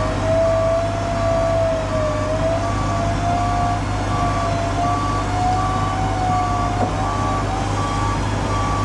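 An electric winch whines steadily under load as it pulls, its pitch wavering slightly. A truck's reversing alarm beeps about one and a half times a second over a steady low engine rumble.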